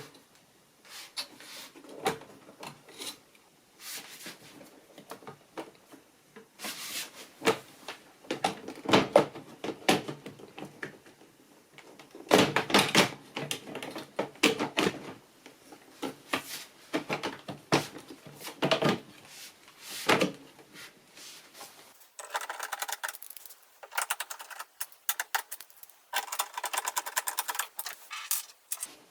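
Hand reassembly of a front-loading washing machine after a pump replacement: plastic and metal panels and parts clicking, knocking and clattering, with two runs of rapid, even clicking toward the end.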